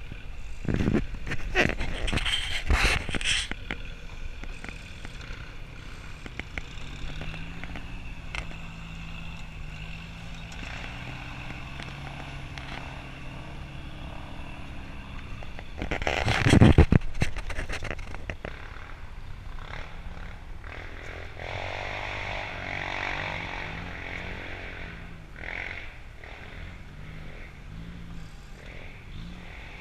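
Off-road vehicle engine running and revving on a rough forest track, its pitch rising and falling, with loud surges of noise about a second in and again just past halfway.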